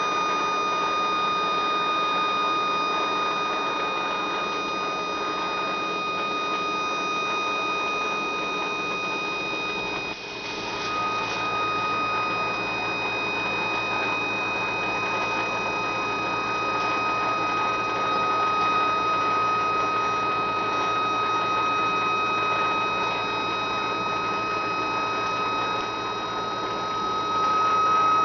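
Small thermoacoustic Stirling engine singing a steady high tone with overtones, the sound that heat drives in its resonator. About ten seconds in the tone briefly dips, then returns slightly stronger with a low hum beneath it.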